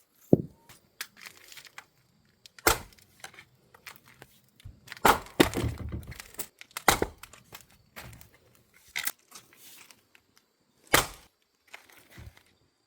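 An axe chopping firewood: several sharp blows a couple of seconds apart, with the wood cracking and tearing apart as the logs split.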